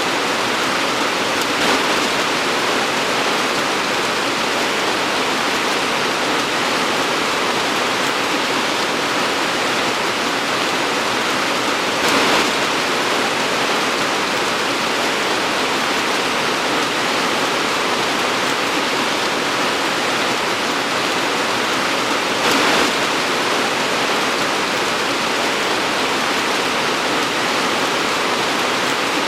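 Torrential rain pouring down in a steady, dense hiss, with brief louder surges about 2, 12 and 22 seconds in.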